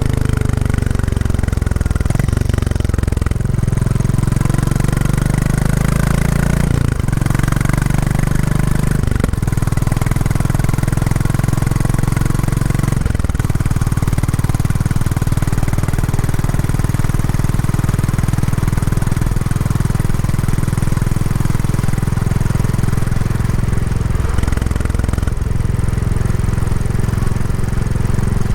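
Royal Enfield Classic 350's single-cylinder engine running through its stock exhaust while being ridden on a break-in ride. The engine note steps abruptly up or down several times, as with gear changes.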